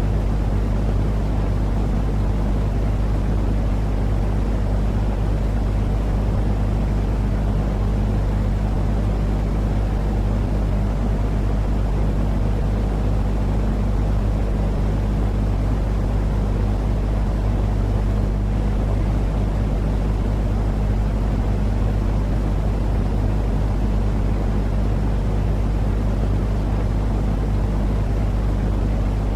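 Steady, unchanging deep noise from a baby sleep-noise track, heavy in the bass with a constant low hum under a softer hiss.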